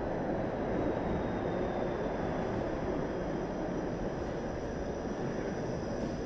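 TTC streetcar running through the underground loop tunnel: a steady, even rumble with a faint high whine that drifts down in pitch partway through.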